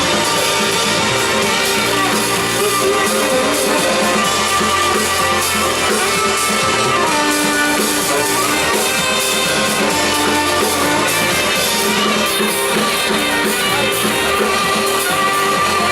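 Live concert music from a trio of saxophone, synthesizers and drums: a busy drum groove under held synth notes, with a deep bass line that drops in and out in long stretches.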